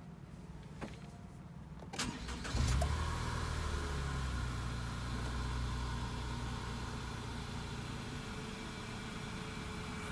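Nissan Note (E12) engine starting: about two seconds in, the starter cranks briefly and the engine catches with a short flare of revs. It then settles into a steady idle that eases slowly lower.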